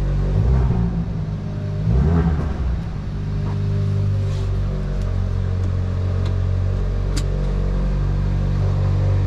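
Hyundai i20 N's 1.6-litre turbocharged four-cylinder engine and exhaust under way, a steady drone with two brief louder surges about half a second and two seconds in.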